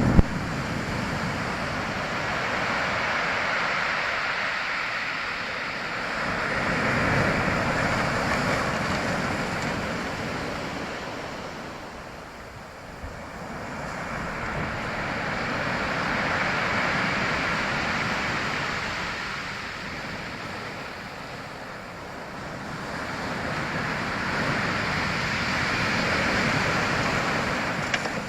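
Sea waves washing in. The rush swells and fades slowly, peaking about every ten seconds.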